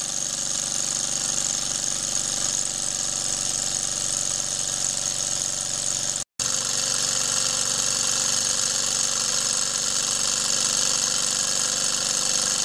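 Model alpha-type Stirling engine running fast and steadily, a rapid continuous mechanical clatter with a strong high hiss. A split-second gap cuts it about six seconds in.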